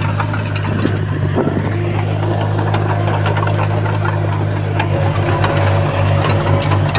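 Heavy-equipment diesel engine running steadily, with scattered sharp clicks and clanks over it. About two-thirds of the way through, the engine note briefly flutters.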